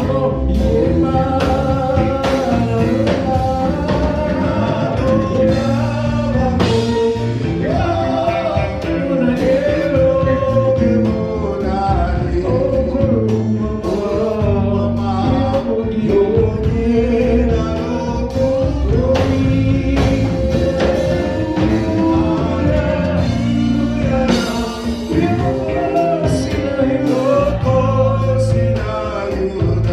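Live gospel praise band playing a worship song with singing over a steady beat.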